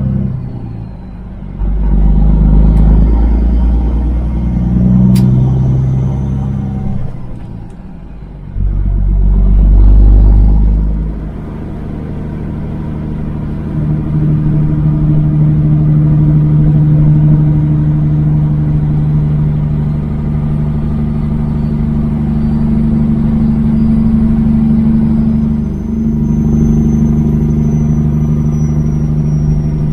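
Kenworth W900 semi truck's diesel engine heard from inside the cab under way. The deep rumble drops away briefly about a second in and again about eight seconds in, then settles into a steady drone.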